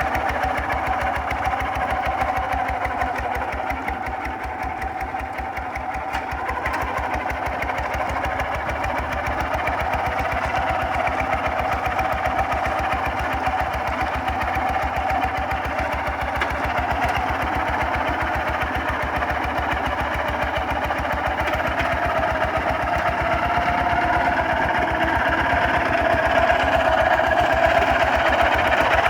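Kubota RT140 DI single-cylinder diesel engine running steadily with a rapid, even firing beat. It dips slightly a few seconds in and grows louder toward the end.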